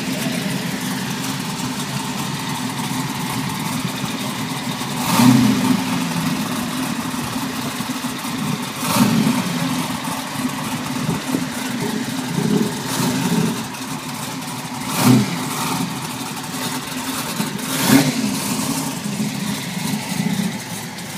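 A car engine idling steadily, with a few brief louder bursts of noise about five, nine, fifteen and eighteen seconds in.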